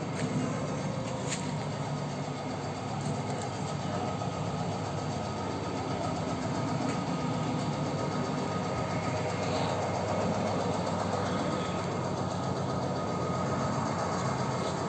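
Maruti Suzuki 800's three-cylinder petrol engine idling steadily.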